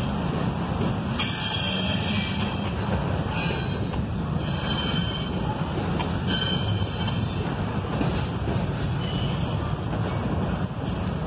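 Double-stack intermodal well cars of a freight train rolling past at close range: a steady rumble of steel wheels on rail, broken by several short high-pitched wheel squeals.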